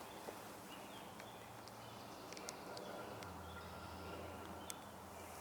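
Quiet woodland ambience with a handful of short, sharp ticks at irregular spacing and faint high bird notes; a low hum comes in about three seconds in.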